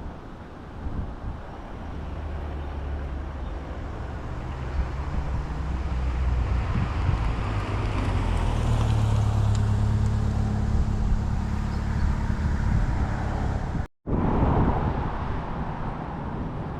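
A car engine runs as the car drives slowly past, growing louder toward the middle. The sound breaks off abruptly about fourteen seconds in, and another vehicle engine follows.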